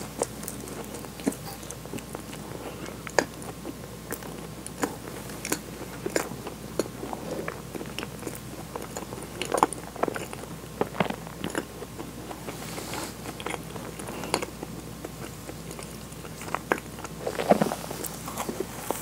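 Close-up chewing of a soft, sugar-dusted, cream-filled donut: irregular wet, sticky mouth clicks and smacks. A louder cluster of sounds comes near the end.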